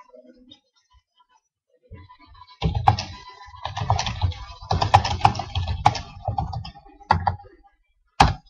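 Typing on a computer keyboard: a run of rapid key clatter with dull knocks, then a single sharp click near the end.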